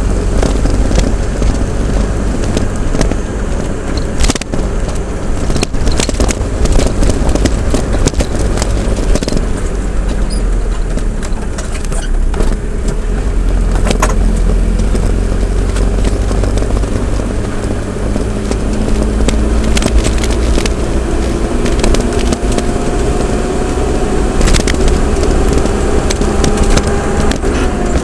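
A motor vehicle on the move, heard from on board: a heavy low rumble of engine and road noise with frequent clicks and rattles from bumps. An engine tone climbs slowly over the last several seconds, then drops.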